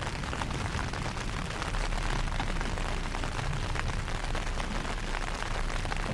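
Heavy rain falling steadily: a dense hiss of many small drop impacts, with a low rumble underneath.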